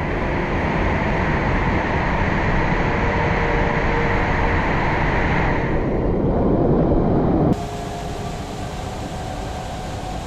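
Waterfall rushing steadily, loud and close. About seven and a half seconds in it cuts abruptly to a quieter, duller rush.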